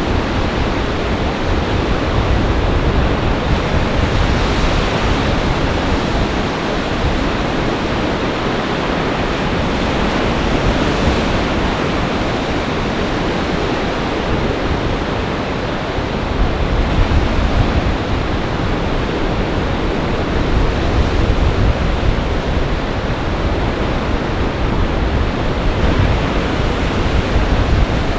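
Storm surf on a large lake, waves breaking and washing in a steady roar that surges now and then, with gale-force wind buffeting the microphone in a deep, gusting rumble.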